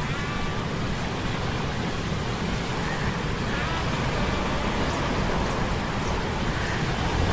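Steady rushing noise of a sea storm with a deep rumble, layered with faint whining hum of metal gears.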